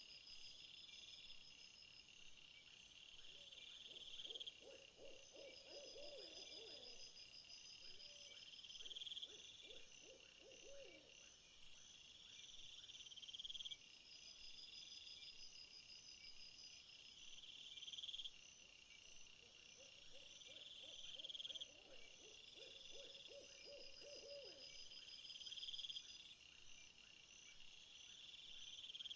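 Faint insect chorus: buzzy calls repeating about every four seconds, over a steadier high pulsing. A lower trilling call comes in twice, for several seconds each time.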